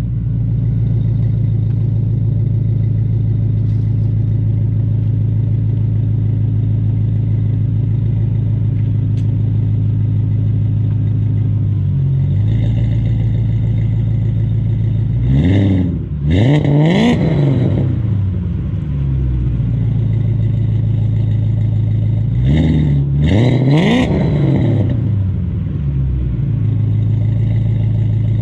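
BMW E39 540i's V8 idling through a custom catless exhaust, still warming up after a cold start. About halfway through it is blipped twice in quick succession, and about six seconds later twice more, each rev rising and falling quickly back to idle.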